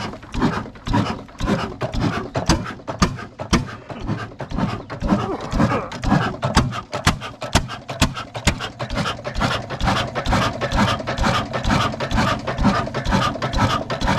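Old Ruston diesel engine driving a tubewell pump, running with a slow, even exhaust beat of about three strokes a second.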